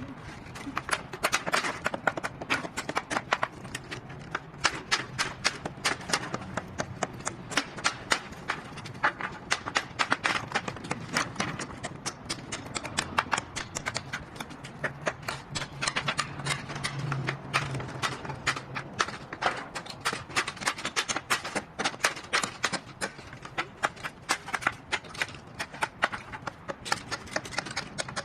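Hailstones striking a hard surface: a dense, irregular clatter of sharp hits that keeps on without a break.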